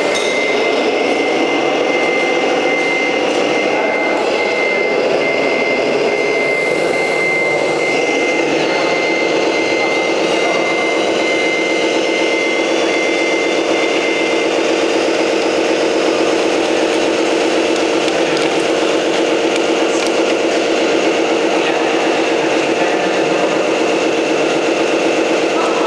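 A steady vehicle engine drone, with a high electronic beep repeating at an even pace, like a reversing alarm, that stops a little over halfway through.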